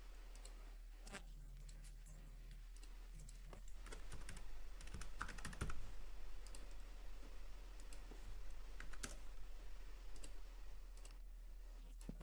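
Faint, irregular computer keyboard typing and mouse clicks, as names are typed and items placed in a workflow diagram editor.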